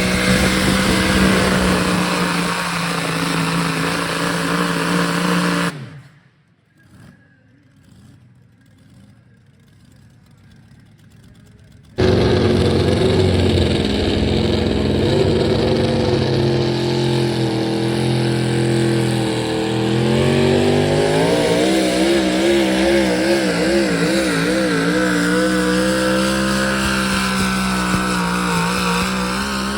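Pulling vehicle's engine running hard under load at a truck and tractor pull, holding a steady pitch. It drops out abruptly about six seconds in, leaving only a faint background, and returns just as suddenly about twelve seconds in. About two-thirds of the way through its pitch wavers rapidly up and down for several seconds, then steadies.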